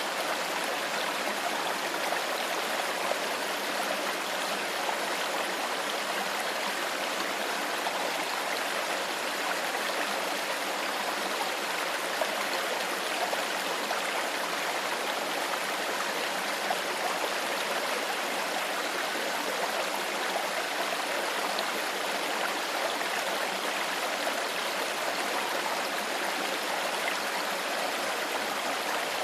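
A clear stream flowing steadily over rocks, a continuous even rush of water with light gurgling.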